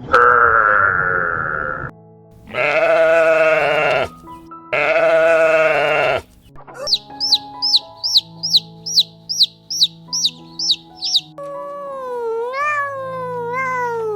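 Two long, wavering bleats from a goat or sheep, followed by a run of about eleven short, high falling chirps, over background music.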